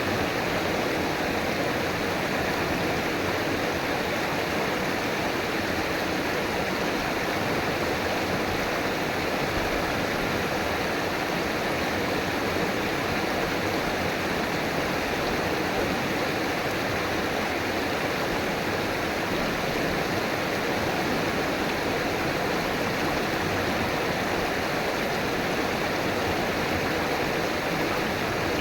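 River water running over rocks: a steady, even rush and burble that holds constant.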